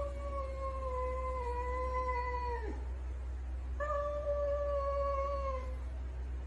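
A cat yowling in two long, drawn-out calls. The first ends with a sudden drop in pitch a little under three seconds in, and the second starts about a second later and lasts about two seconds. A steady low hum runs underneath.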